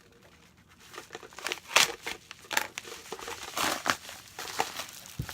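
A mail package being opened by hand: its packaging crinkling and tearing in irregular rustles and sharp crackles, starting about a second in.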